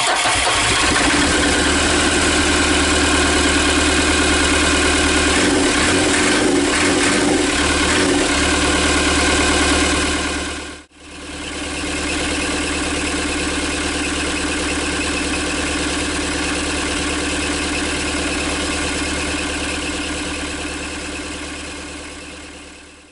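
Perkins diesel engine of a JCB backhoe loader running steadily, with a newly fitted fuel injector on number 4 cylinder, the one that had a dead miss. The sound breaks off briefly about halfway through, then the engine runs on and fades out near the end.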